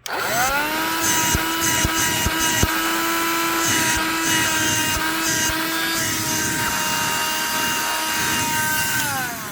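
Black & Decker handheld vacuum switched on, its motor spinning up to a steady high whine within half a second, with a few sharp clicks in the first few seconds. Near the end it is switched off and the whine falls in pitch as the motor winds down.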